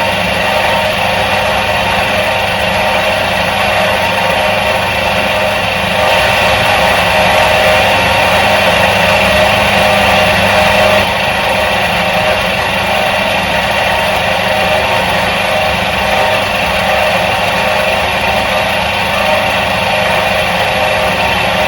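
Electric motor of a 1977 Soviet washing machine running steadily with a continuous hum. It grows a little louder for a few seconds, then settles back about halfway through.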